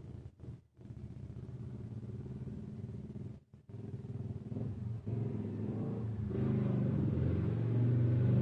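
A low, steady drone like a running motor, cutting out briefly twice and growing louder from about five seconds in.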